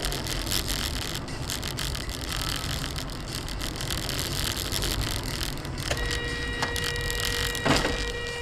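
Car driving noise with many small rattles and clicks. About six seconds in a steady, horn-like tone with overtones begins, and a single sharp knock comes about a second before the end.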